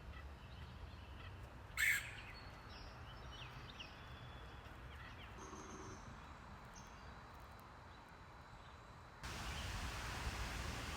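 A red-headed woodpecker gives one short, harsh call about two seconds in, followed by a few faint, thin chirps. Outdoor background noise runs throughout and gets louder suddenly near the end.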